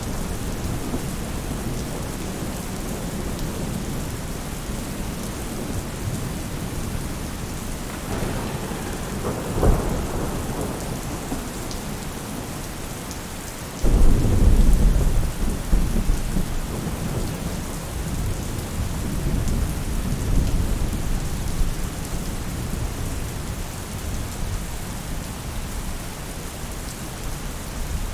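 Steady rain falling on a roof. About a third of the way in there is a short clap of thunder. About halfway through, a loud, deep roll of thunder starts suddenly and rumbles away over several seconds.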